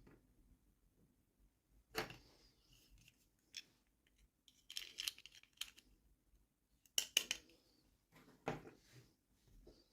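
Small toy packaging being handled and opened at close range: scattered short, sharp clicks and crinkles in a few clusters, loudest about seven seconds in.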